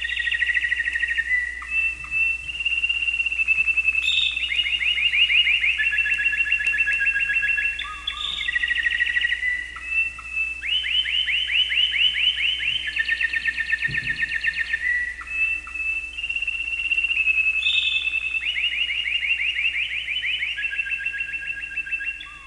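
A songbird singing a long, varied song: trills of quick repeated notes lasting a few seconds each, linked by short steady whistled notes.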